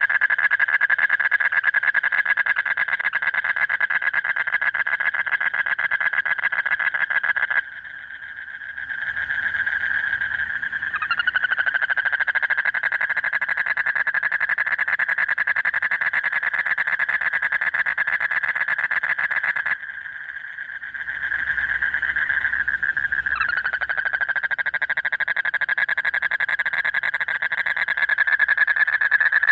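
Male Asian common toads (Duttaphrynus melanostictus) giving long, loud, continuous trills: rapid pulses at one steady pitch. The trill breaks off briefly twice, and each new trill starts with a quick rising sweep. This is the breeding-season call a male uses to draw in a mate.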